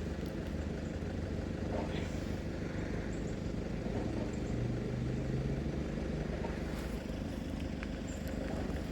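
A vehicle engine idling steadily, its low note swelling and rising a little about four seconds in, then settling again.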